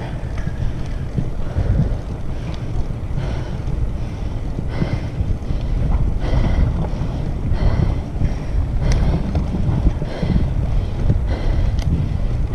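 Wind buffeting the microphone while riding a bicycle, a heavy steady rumble, with a short hiss coming back about every second or so.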